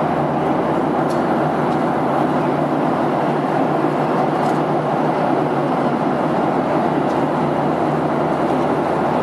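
Aircraft cabin noise: the steady, even roar of the jet engines and rushing air, heard from inside the cabin.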